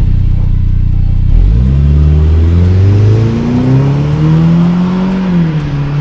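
Saab 9-5 Aero's turbocharged four-cylinder engine running through an exhaust whose intermediate muffler has been replaced by a straight 63 mm stainless tube: steady idle, then revving up from about a second and a half in, climbing again and dropping back near the end.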